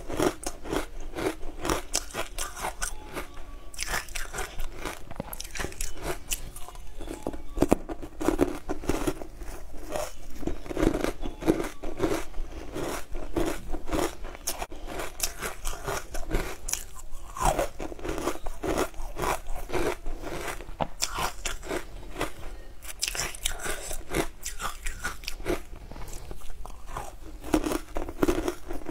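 Close-miked biting and crunching of hard frozen chunks, then chewing them, with a dense run of crackling crunches throughout.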